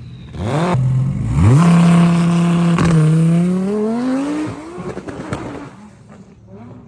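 A race car's engine revving hard as the car accelerates. The note climbs steeply, holds steady, dips briefly about three seconds in and climbs again, then fades away after about five seconds.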